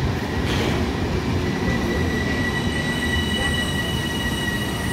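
PKP Intercity passenger coaches rolling past with a steady rumble. A high, steady metallic squeal from the running gear sets in about a second and a half in, and a second, higher squealing tone joins it shortly after.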